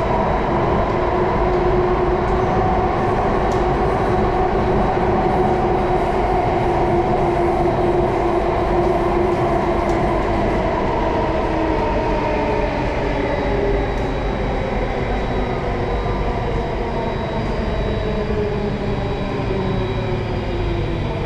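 Singapore MRT Circle Line train running in its tunnel, heard from inside the car: a steady rumble of wheels on rail under the whine of the electric traction motors. The whine sinks slowly in pitch through the second half as the train slows for the next station.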